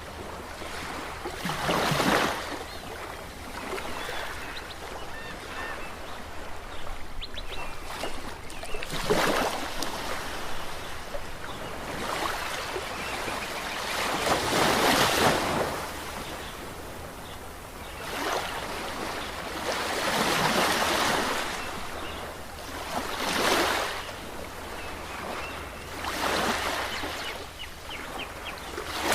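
Ocean waves breaking on a shore, one after another. Each wave swells to a rush and falls away, about six in all, coming every few seconds.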